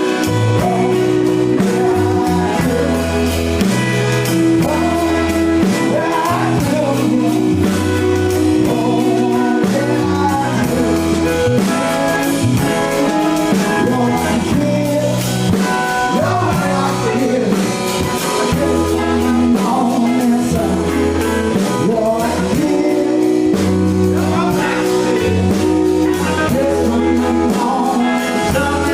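A blues-rock band playing: guitar over a moving bass line, with singing.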